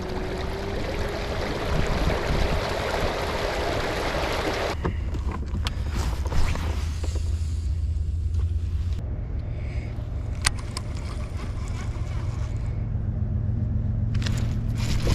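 Kayak under way: water rushing along the hull and wind noise over a steady low hum. There is a single sharp click about two-thirds of the way through.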